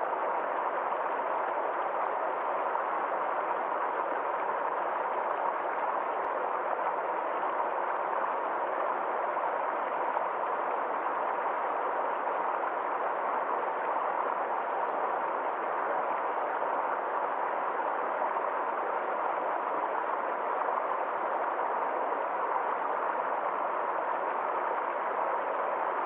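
Water of a small forest stream flowing steadily, a continuous even rush.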